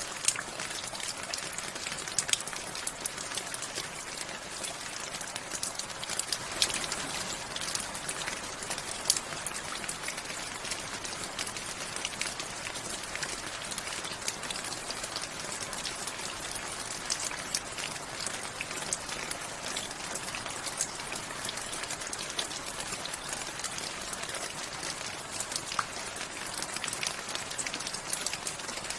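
Steady rain falling, with many separate drops tapping close by and now and then a louder single drop.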